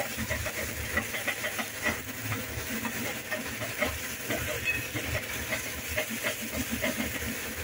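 Onion-tomato masala sizzling in a metal kadai, with a spatula scraping and knocking against the pan in quick, irregular strokes as it is stirred. The masala is being fried (bhuna) with its spices as the tadka for a dal fry.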